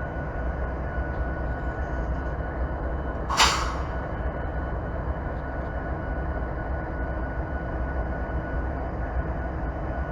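Train rumbling steadily, with a thin steady whine over it. There is one short, sharp hiss about three and a half seconds in.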